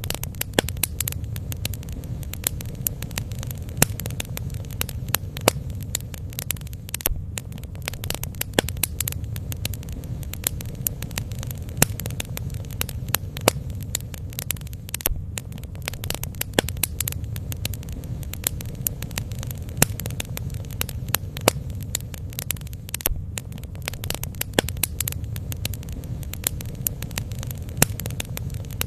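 Bonfire burning, the wood crackling and popping in many irregular sharp snaps over a steady low rumble.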